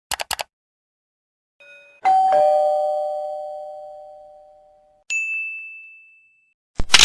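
Three quick clicks, then a doorbell ding-dong chime: a higher tone followed by a lower one, both ringing out for about three seconds. A single high ding follows, and a loud noisy burst cuts in near the end.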